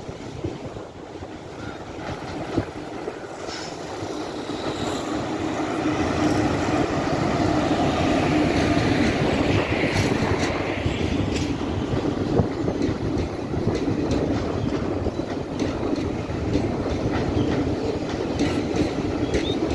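Locomotive-hauled express passenger train crossing a steel girder bridge. Its rumble builds over the first several seconds as it approaches, then holds steady as the coaches pass close by, with a rhythmic clatter of wheels over the rail joints.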